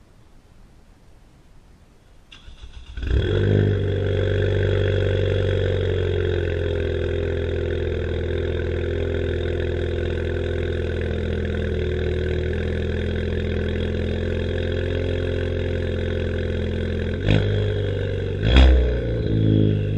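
Straight-piped 2016 Ford Fiesta ST's turbocharged 1.6-litre four-cylinder engine cranking and catching about three seconds in, then idling steadily. Near the end it is blipped in three quick revs.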